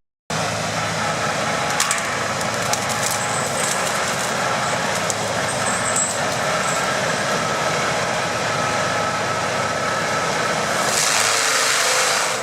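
Heavy stump-removal machinery working a tree stump: a steady, loud machine noise with scattered sharp cracks of wood splintering.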